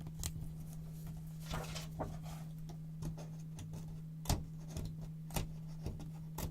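Scissors cutting brown paper: irregular crisp snips, about eight, with a brief stretch of paper rustling about a second and a half in and the loudest snip a little past the middle.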